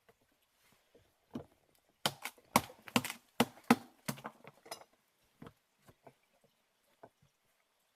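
A quick, irregular run of sharp knocks and clicks, like things being handled and struck, bunched about two to five seconds in, with a few scattered ticks before and after.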